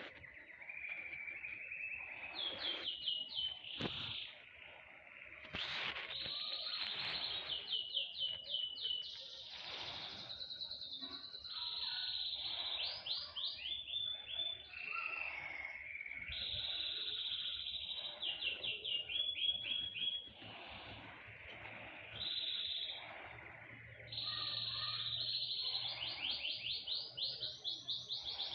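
Small songbirds singing continuously: rapid trills of repeated high, down-slurred notes alternating with held, buzzy high notes, in bouts of a second or two with short pauses between them.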